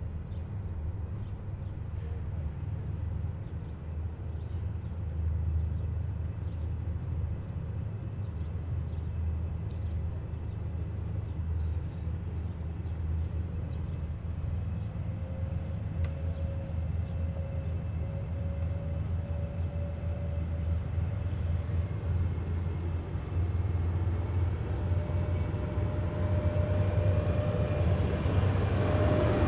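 Engines of heavy military vehicles rumbling low and steadily as a column passes. From about halfway a whine grows, and near the end it gets louder as another vehicle comes up.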